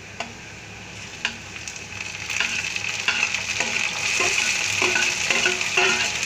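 Onions frying in oil in a kadhai, stirred with a metal slotted spoon with a couple of sharp knocks. The sizzle swells from about a third of the way in and grows louder as chopped tomatoes are tipped into the hot oil.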